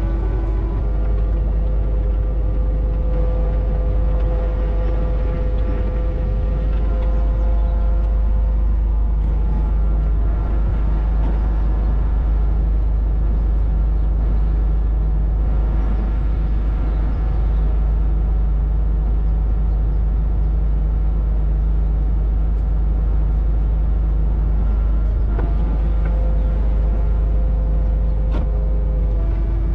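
Kubota KX61-2a mini excavator's diesel engine running steadily under work, with an even drone and faint knocks and clicks over it.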